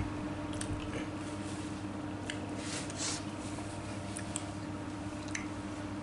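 Close-miked eating sounds: wet chewing and mouth smacks as extra-spicy tofu is eaten, with two short hissing slurps about two and three seconds in. A steady low hum runs underneath.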